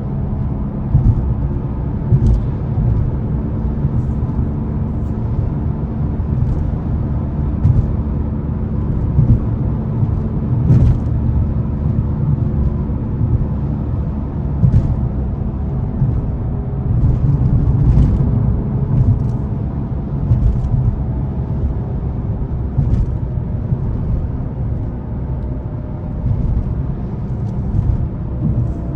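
Cabin sound of a 2011 Ford Fiesta 1.6 Zetec S being driven: the engine runs at a steady pitch over low road and tyre rumble, with scattered short knocks at irregular intervals. Near the end the engine note falls.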